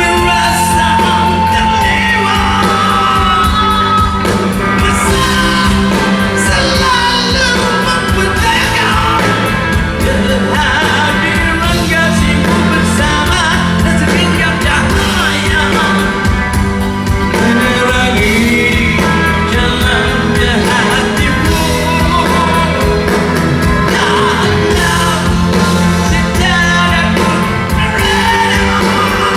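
Rock band playing live with a lead singer: loud, continuous band music with sung vocals over electric guitars, bass and drums.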